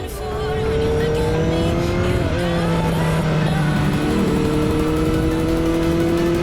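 A motor vehicle engine accelerating, its pitch rising steadily in two long pulls, with music underneath.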